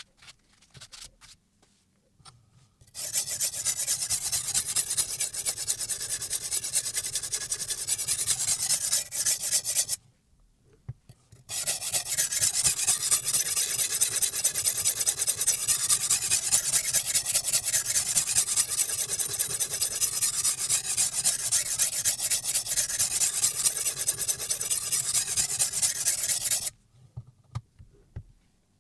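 Silicon carbide water stone on a guided sharpening system being stroked rapidly along a steel chef knife's edge, a steady grinding rasp. Two long spells of strokes with a short pause of about a second and a half in between.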